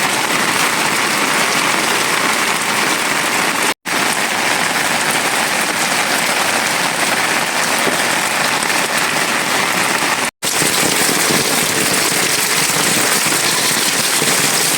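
Steady heavy rain falling, a dense even hiss with no letup; the sound drops out for an instant twice, about four and ten seconds in.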